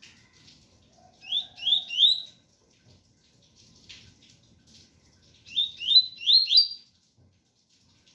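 Double-collared seedeater (coleiro) singing its 'tui-tui' song: two short phrases of quick rising whistled notes, three notes and then four, over a faint patter of rain.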